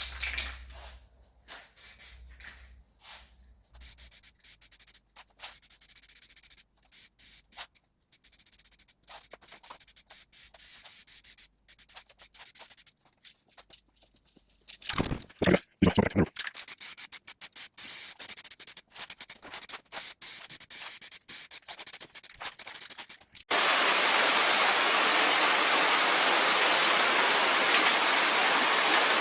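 Aerosol spray-paint can spraying in many short hissing bursts, stopping and starting. About three-quarters of the way through, a steady, louder rushing noise sets in abruptly and carries on.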